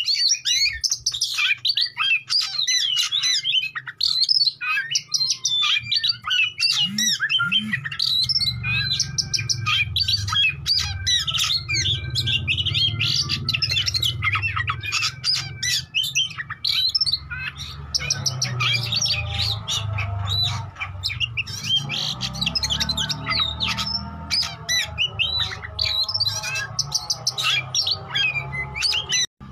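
Oriental magpie-robin (kacer) singing a fast, varied stream of chirps, whistles and harsh squawking notes. This is the song used as a lure to set other kacer singing and responding. A low rumble runs underneath from about eight seconds in.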